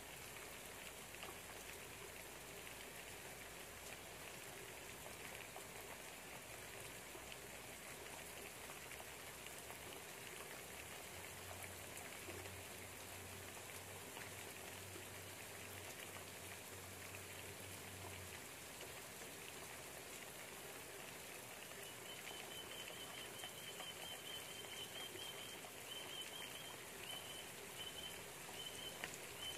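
Steady light rain falling outside, a soft even patter of raindrops. From about two-thirds of the way in, a faint high chirp repeats at short, even intervals.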